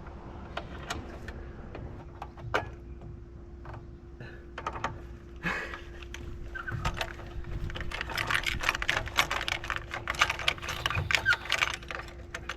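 Raindrops tapping irregularly on the camera and its microphone, sparse at first and then much faster and louder from about halfway through. A steady low hum runs underneath.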